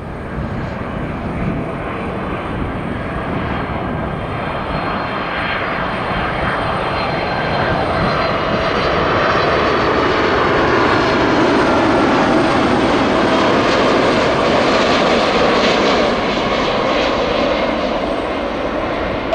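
Arriving jet airliner on final approach passing close by, its engine noise building steadily to a peak about two-thirds of the way through and easing a little near the end, with a faint high whine over the rush.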